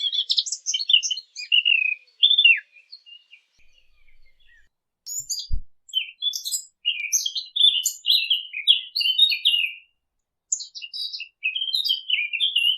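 Sylvia warbler singing: fast, scratchy warbling phrases in three runs with short pauses between them. A brief low thump comes about halfway through.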